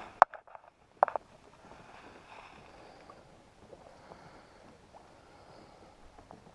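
Two sharp knocks in the first second, then a faint steady wash of water and wind noise from a fishing kayak under way while trolling.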